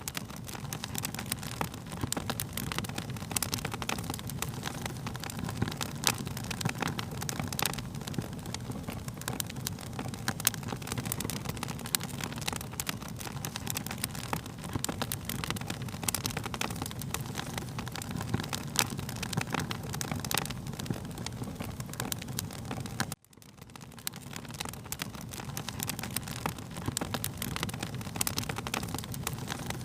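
Wood fire crackling, with frequent sharp pops and snaps over a steady low rumble of flames. About 23 seconds in the sound cuts out for an instant and fades back in.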